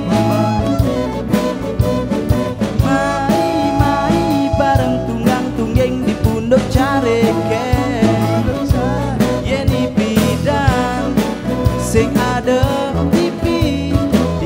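Band music in a Balinese fusion-pop song: a steady drum beat under sustained chords and melodic lines.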